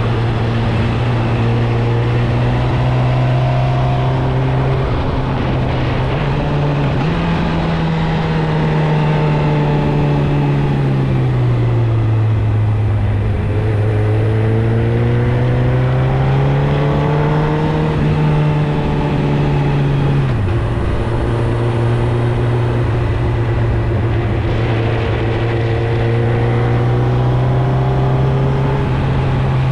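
2016 Suzuki GSX-R1000's inline-four engine running through its stock exhaust while being ridden. The engine note holds steady, rises about a quarter of the way in, dips near the middle and climbs again, then drops sharply about two thirds through before settling at a steady pitch.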